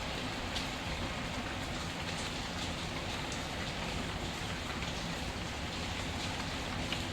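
Steady rain falling, with a few sharp crackles from a burning wood fire scattered through it.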